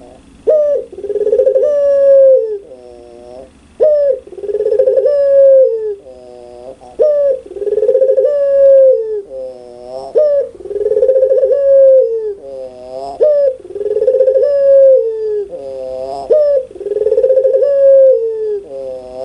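Puter pelung dove (a domesticated collared dove) cooing loudly and over and over, about one phrase every two seconds. Each phrase is a long, clear held coo that drops at the end, followed by a quick run of falling chuckling notes: the 'laughing' coo.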